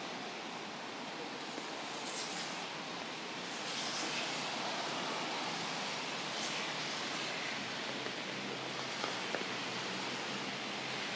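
Steady hiss of falling rain, with a few brief swishes about two, four and six and a half seconds in.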